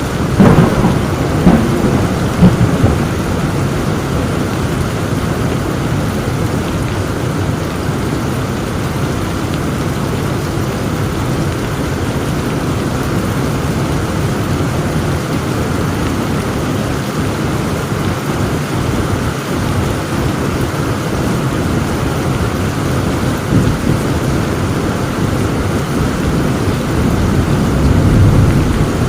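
Heavy thunderstorm: steady heavy rain, with a sharp crack of thunder just after the start that rolls on in several peaks for about three seconds, and another low rumble of thunder near the end.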